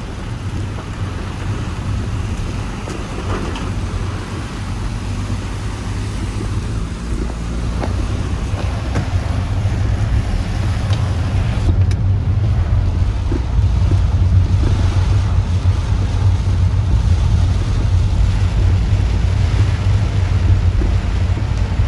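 Typhoon wind buffeting the microphone with heavy rain, a steady low rumble under a noisy hiss that builds slowly louder.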